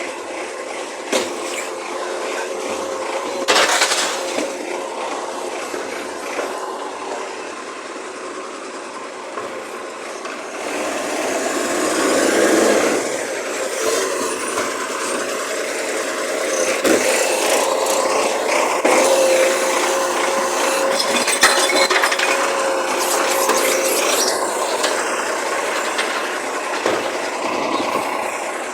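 Recycling garbage truck at work: its engine runs with a steady whine and scraping, rubbing mechanical noise, and a sharp clatter comes a few seconds in.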